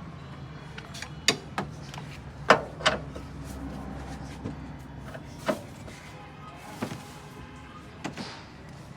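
Sharp metallic knocks and clanks, about seven of them at irregular intervals, from mechanics working on a car, over a steady low hum.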